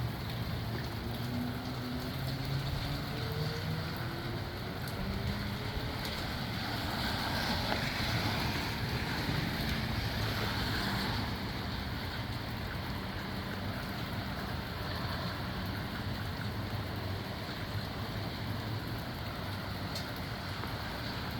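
Strong gusty wind with rain, a steady rush that swells into a stronger gust about a third of the way in, with wind buffeting the microphone. A faint low droning tone sits under it in the first few seconds.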